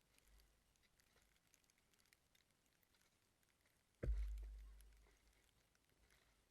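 Near silence with faint scattered crackles, then about four seconds in a single sudden thump whose deep low rumble dies away over about a second.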